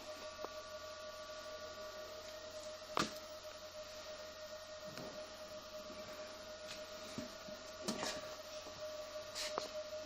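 Steady hum of water-treatment equipment, a single held tone, with a few faint clicks and knocks, the clearest about three seconds in and several near the end.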